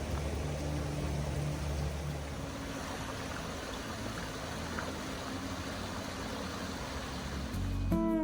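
A creek rushing steadily over rocks, with faint background music under it; a strummed acoustic guitar tune comes in louder near the end.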